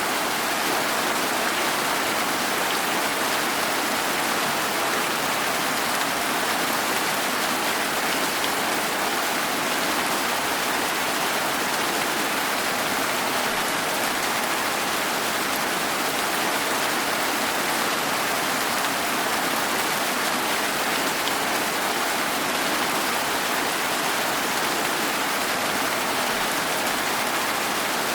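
Steady rain falling without a break, an even hiss with no thunder or other events.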